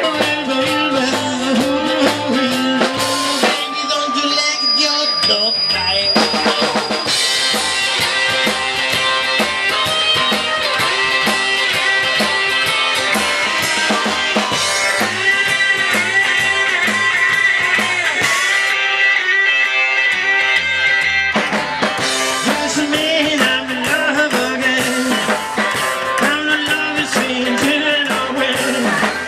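Live rock and roll band playing an instrumental stretch: a drum kit with snare and bass drum keeping the beat under long held lead notes.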